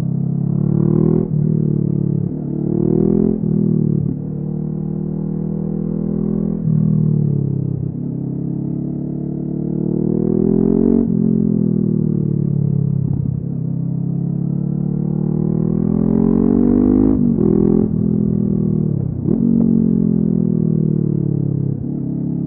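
Honda CB500F's parallel-twin engine through a LeoVince aftermarket exhaust, pulling up through the gears. The pitch climbs and drops sharply at each quick upshift, then falls away and climbs again several times.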